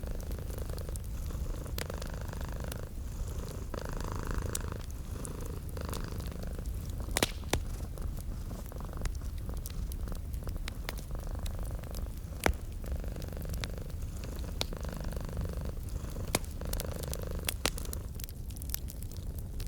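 Domestic cat purring steadily in slow, even breaths, over a wood fire in a fireplace crackling with scattered sharp pops, a few louder ones.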